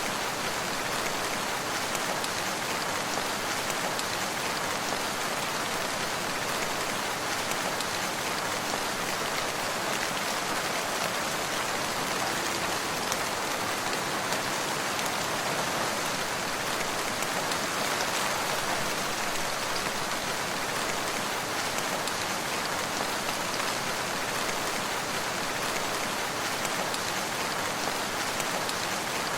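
Steady rain falling on a surface, an even hiss of many drops that does not let up.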